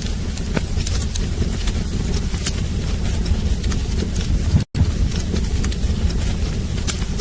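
Wood fire burning in a fireplace: a steady low rumble with scattered sharp crackles and pops. The sound cuts out completely for an instant about four and a half seconds in.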